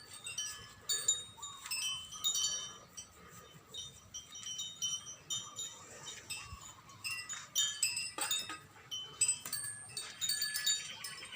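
Wind chimes tinkling, with many high, short ringing notes struck at irregular moments.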